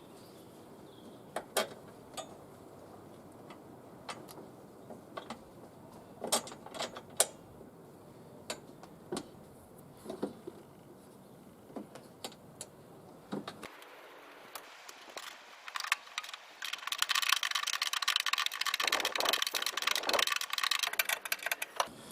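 Scattered metal clicks and clinks of a spanner and handle bolts being handled, then, from about seventeen seconds in, a rapid run of clicking as the spanner works a bolt tight on the lawn mower's handle.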